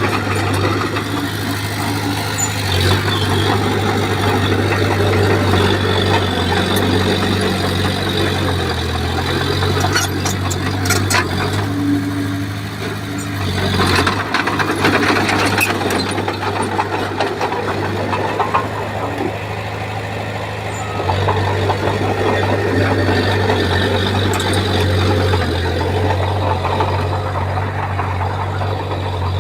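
Bulldozer's diesel engine working, its note dropping and then picking up again as the load changes. There is a run of sharp knocks and clatter about halfway through.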